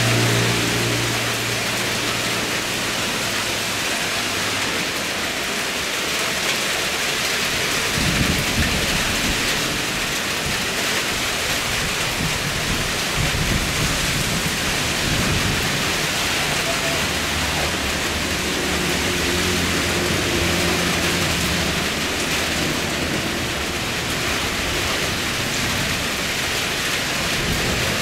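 Steady hiss of rain, with a low rumble coming in underneath from about eight seconds in.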